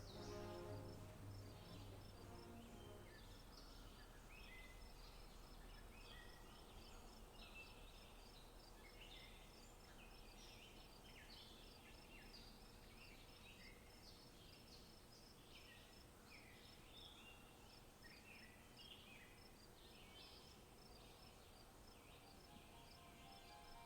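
Quiet bird chirps and twitters, many short calls, over a faint, evenly repeating high ticking like an insect. Music fades out over the first few seconds and comes back in near the end.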